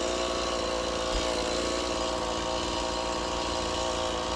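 Gas chainsaw running at a steady, unchanging speed, starting and stopping abruptly.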